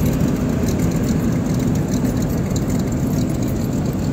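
A large engine idling steadily: a loud, even low rumble with a constant hum.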